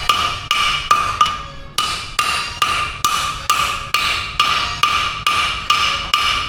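Hammer blows on steel at the anvil, a steady rhythm of about two and a half strikes a second, each with a bright metallic ring, with one brief pause about a second and a half in.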